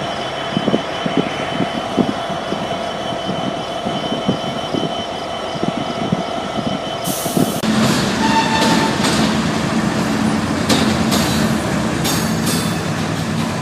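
Railroad cars rolling past, wheels knocking irregularly over rail joints under a steady squeal-like whine. About halfway through the sound changes to a louder, steadier rumble with a low hum.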